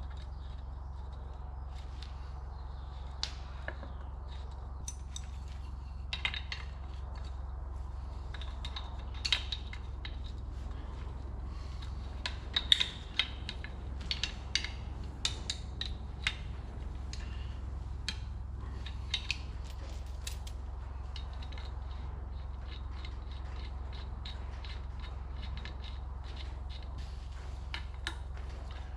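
Scattered light metallic clicks and clinks of hand tools and metal fittings being handled, heaviest through the middle, over a steady low hum.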